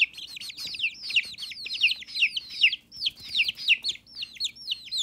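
Several baby chicks peeping without a break: high, short peeps that slide down in pitch, several a second and often overlapping.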